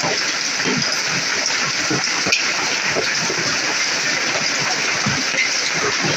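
Heavy rain pouring down steadily in a thunderstorm, with a single sharp crack a little over two seconds in.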